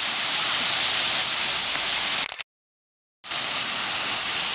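Steady rushing and splashing of a water fountain's falling water. The sound cuts out to complete silence for under a second a little past halfway, then resumes.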